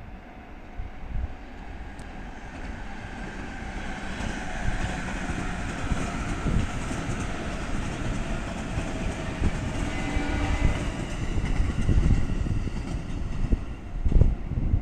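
A train running along the line, its rumble building steadily louder with wheels clacking over the rails.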